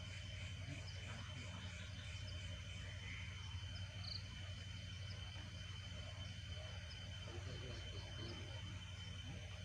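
Night insects chirping steadily, with a thin unbroken high trill and small repeated chirps over a low steady rumble.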